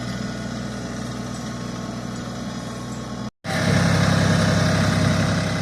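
Tractor engine running steadily. A little over three seconds in, the sound drops out for an instant, then returns louder.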